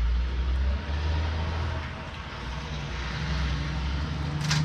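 A low, steady mechanical rumble, with one sharp click near the end.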